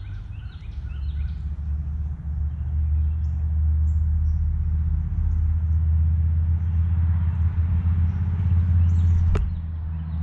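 Low, steady rumble of a motor vehicle engine running close by, building over the first few seconds and easing near the end. Small birds chirp over it, and there is one sharp tap shortly before the end.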